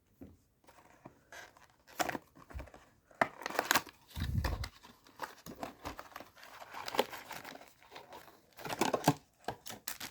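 Packaging of a trading-card booster box being torn and crinkled open by hand, with irregular rustles and clicks and a dull thump about four seconds in.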